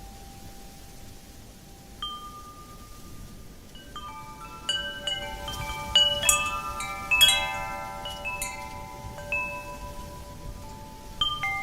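Wind chimes stirred by the wind: one ringing note about two seconds in, then a flurry of overlapping tinkling tones through the middle, the loudest part, thinning to a couple of single strikes near the end. A steady low rush of wind lies under it throughout.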